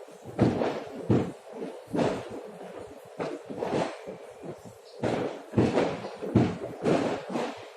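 Distant fireworks going off in a rapid, irregular series of bangs and pops, roughly two a second, with a short echo after each.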